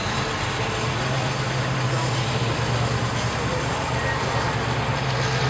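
A car engine idling steadily with a low, even hum, over outdoor background noise.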